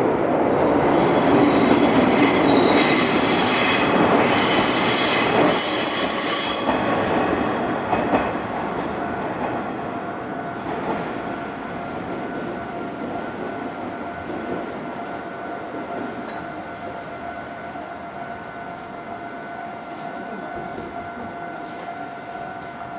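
A train passes over the level crossing, its wheels squealing loudly on the rails for the first several seconds. The train then fades away. Throughout, the crossing's warning bell keeps up a steady ringing tone.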